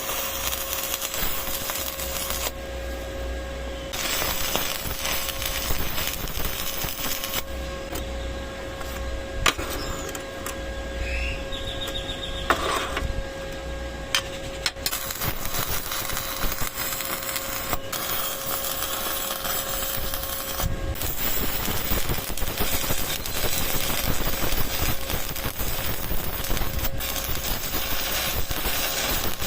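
Stick welding with a 6013 electrode: the arc gives a steady, dense crackle.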